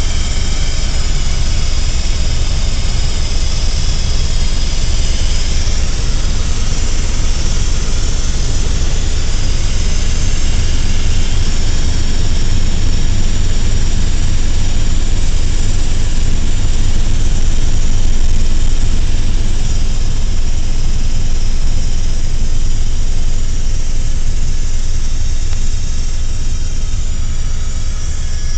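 Helicopter in flight heard from inside the cabin: a loud, steady drone of turbine and rotor with a high hiss over it, swelling a little about two-thirds of the way through.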